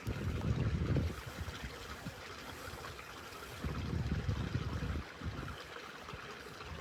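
Wind buffeting the microphone in two gusts, one at the start and one past the middle, over a steady outdoor hiss.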